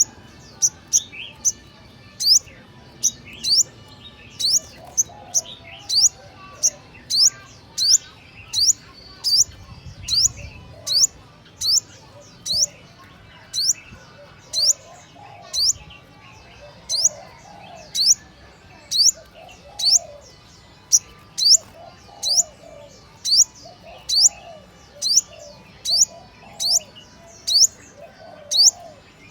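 A bird chirping over and over: short, sharp, high chirps, a little more than one a second and sometimes in pairs, with fainter, lower calls in the background.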